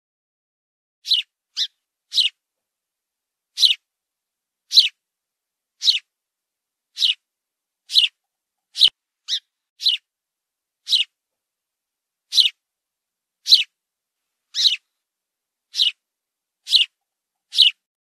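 A fledgling songbird calling: short, high chirps repeated about once a second, now and then two in quick succession.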